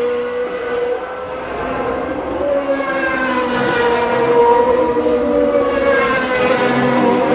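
Several GP2 race cars' naturally aspirated Mecachrome V8 engines running at high revs, overlapping, their pitches sliding up and down as the cars pass. Another car's engine swells in about three seconds in and again about six seconds in.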